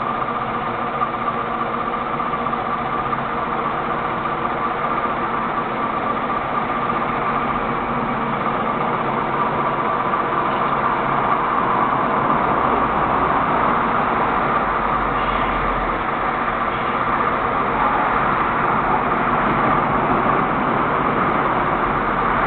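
Scania L94UB city bus's diesel engine running as the bus pulls away and drives on, a steady engine note that grows somewhat louder about halfway through.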